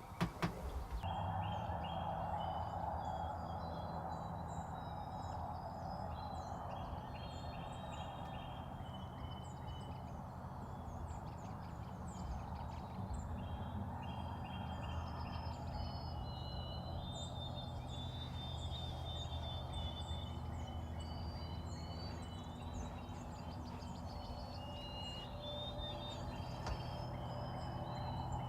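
Wild turkey gobbling over a chorus of songbirds chirping and whistling in the spring woods, with a steady low hum underneath.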